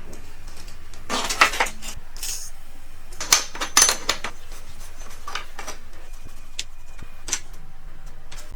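Metal pieces clinking and scraping against each other in short bursts, about four times, over a steady low hum.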